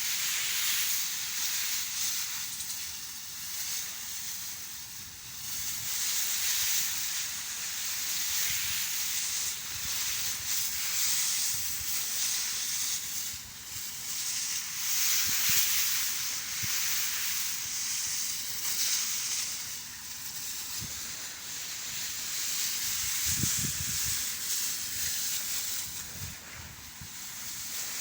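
Tractor-driven crop sprayer hissing steadily as it sprays, a high, airy hiss that swells and fades every few seconds.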